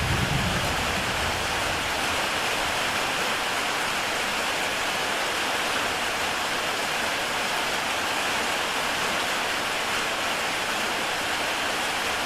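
Heavy rain pattering steadily on a tile roof, an even hiss. A brief low rumble in the first second fades away.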